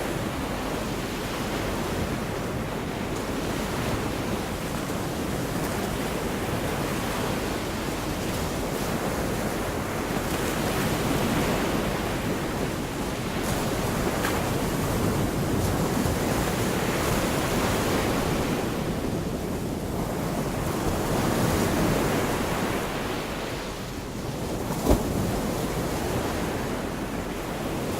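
Gulf of Mexico surf washing onto the beach: a steady rush of water that swells and eases every few seconds. A single brief sharp tap sounds near the end.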